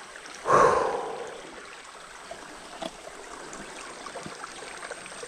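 Creek water running steadily over the stream bed. About half a second in, a short loud whoosh rises and fades away within a second, and a faint click follows near the three-second mark.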